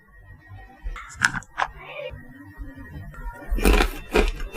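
Close-up eating of Nutella chocolate snacks: a few sharp crunching bites about a second in, then a run of loud crunching chews near the end.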